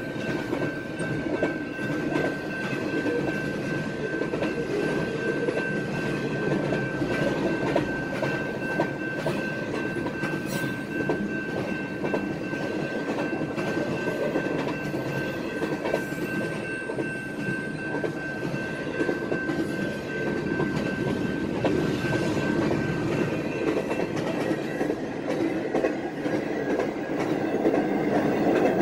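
Double-stack intermodal freight train rolling through a grade crossing: a steady rumble and clickety-clack of the container cars' wheels on the rails. A steady high ringing tone sits above the rumble and fades out about three-quarters of the way through.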